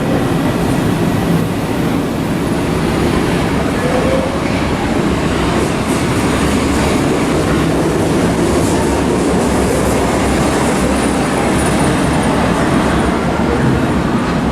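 Munich U-Bahn train running on the track, a steady loud rumble of wheels and motors with faint high wheel squeal in places.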